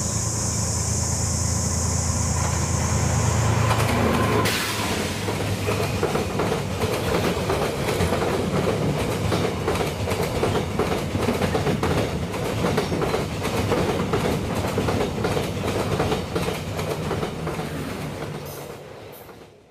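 Diesel locomotive approaching and passing close with its engine running, then passenger coaches rolling by with rapid clickety-clack of wheels over the rail joints. A high steady hiss at the start stops after about three seconds, and the sound fades out near the end.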